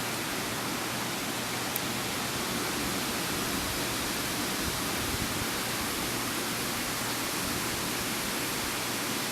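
Wind blowing through trees in storm gusts, a steady even rushing noise.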